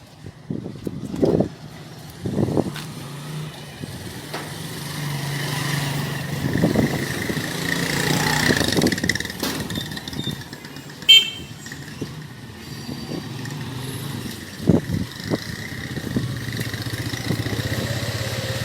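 A motor vehicle engine running, growing louder toward the middle and then easing off, with a few short knocks.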